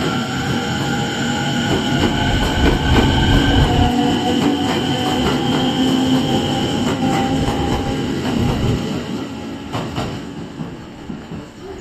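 JR East 209 series electric multiple unit departing and running past. Steady high ringing tones sit over a rumble, with irregular rail-joint clicks, and the sound fades away over the last couple of seconds.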